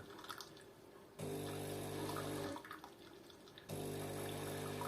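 DeLonghi automatic coffee machine's pump running its cleaning rinse in pulses, with water running out. The pump hums for about a second and a half, pauses, then hums again near the end.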